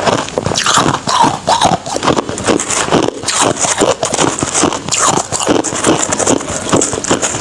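Ice being crunched and chewed close to the microphone: a rapid, continuous run of crisp crunches.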